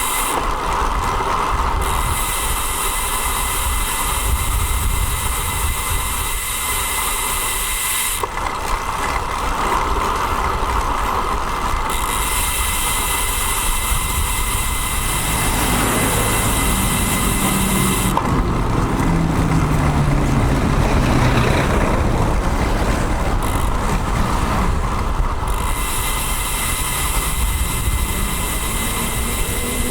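Wind rumble on a bicycle-mounted action camera's microphone while riding a road bike along traffic roads, with a steady hiss that cuts in and out. A motor vehicle passes from about halfway through, its engine note falling in pitch, and another approaches near the end.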